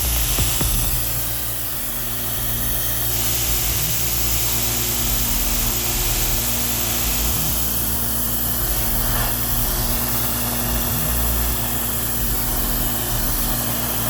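Pressure washer's engine running steadily, with the hiss of high-pressure water spray that grows louder about three seconds in.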